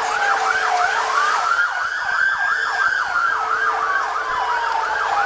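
Police car sirens: a fast yelp, about four warbles a second, over a slow wail that falls, rises and falls again.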